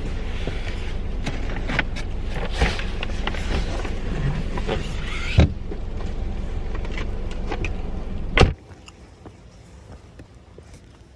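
Steady car rumble with scattered clicks and knocks. There is a loud thump about five seconds in and a louder one about eight seconds in, after which the rumble stops and it goes much quieter.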